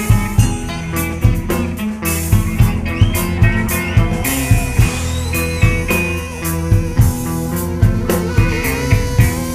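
Live band music with a steady drum beat, bass and guitar in a bluesy rock style.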